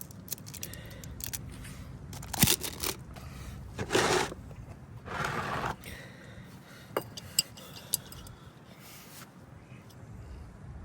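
Hands handling parts during an oil change: scattered clicks and light knocks, with two short, loud scraping or rustling bursts about four and five seconds in.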